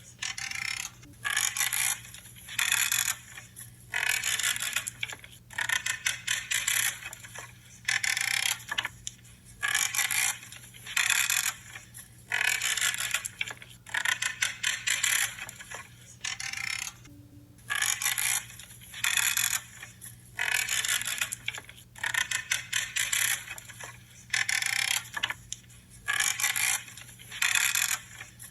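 Pruning shears crunching through branches, a creaking snip about once a second, often in quick pairs, with a short pause about two thirds of the way through.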